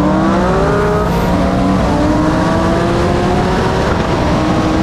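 High-horsepower cars accelerating hard at full throttle, their engine notes climbing steadily in pitch, with a break in the note about two seconds in.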